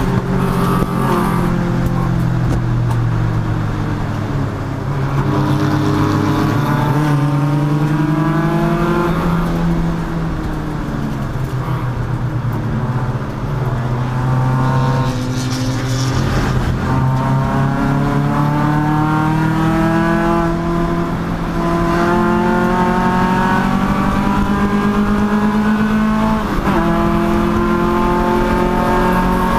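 Race car engine under hard acceleration at speed, its pitch climbing again and again and dropping back sharply at gear shifts and lifts about every five seconds.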